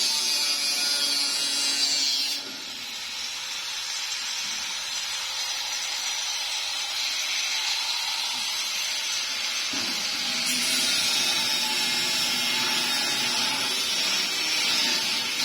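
A power tool running for a long stretch, dropping back a little about two seconds in and working harder again from about ten seconds on.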